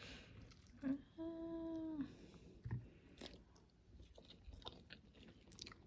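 Faint chewing of soft cooked vegetables, with small wet clicks, and a short hummed "mmm" at one steady pitch about a second in.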